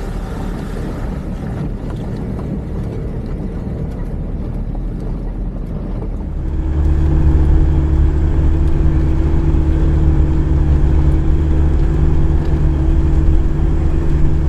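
Turbodiesel 4x4 engine running as the vehicle drives along, heard from inside; about halfway through the engine note grows louder with a steady low hum.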